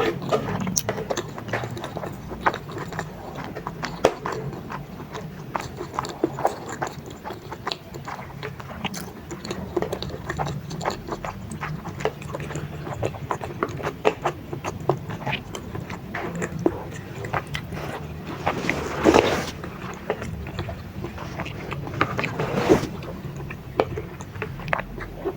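Close-miked chewing and biting of chewy baso aci tapioca balls in spicy broth: a steady run of small wet mouth clicks, with two louder, longer eating noises about 19 and 23 seconds in.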